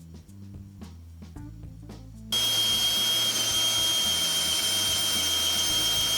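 Power tool running with a steady high-pitched whine, switching on abruptly about two seconds in; background music plays before it.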